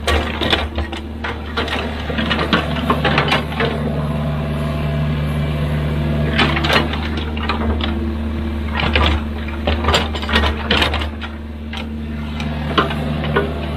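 Excavator's diesel engine running steadily under load, with many sharp knocks and clanks from the machine working. The engine note rises for most of the middle and settles again near the end.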